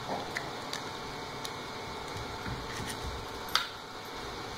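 Eggs being cracked and beaten in a bowl: a few scattered light clicks of shell or utensil against the bowl, with one sharper click about three and a half seconds in.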